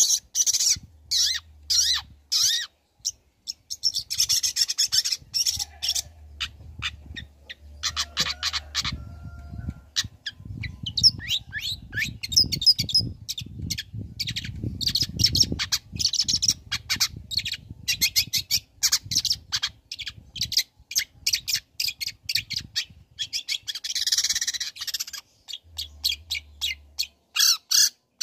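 Long-tailed shrike (cendet) singing a fast, varied song of rapid clicking chatter and harsh raspy squawks. A low background rumble runs under it for several seconds midway.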